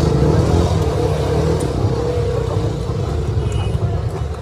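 Steady low rumble of a motor vehicle running, slowly getting a little quieter.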